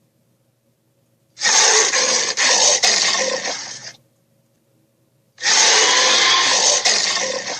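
Red Claw's screech, a cartoon sharptooth dinosaur sound effect, played twice. Each screech is a loud, rasping cry lasting about two and a half seconds, with a short silence between them.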